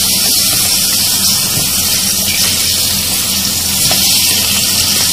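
Raw chicken pieces and chopped onion sizzling steadily in hot oil in a karahi, just after the chicken went in, with a spatula stirring them around.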